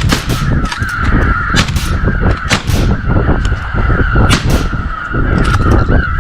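Crow caws, a series of short harsh calls in small clusters, over heavy wind buffeting the microphone.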